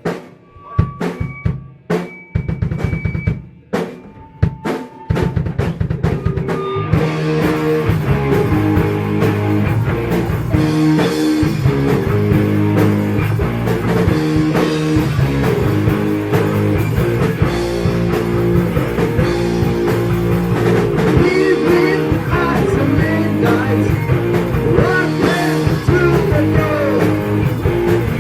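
Heavy metal band: a drum kit plays alone at first, separate kick and snare hits. About seven seconds in, electric guitars and bass come in and the full band plays on steadily.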